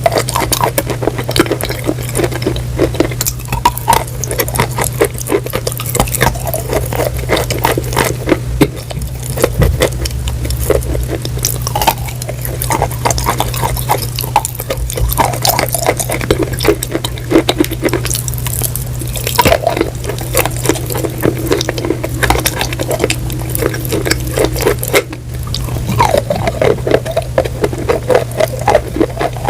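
Close-up chewing and crunching: a dense run of sharp crackling clicks with wet mouth sounds, over a steady low hum.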